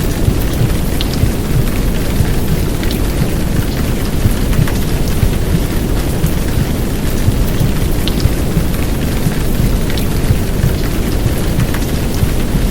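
Steady heavy downpour of rain, blended with a low, dense womb-sound white noise, with faint individual drops ticking through.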